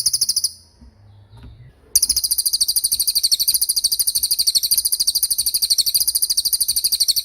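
A bird's rapid, high-pitched trill of evenly repeated notes: a short burst at the start, then, about two seconds in, a long unbroken trill.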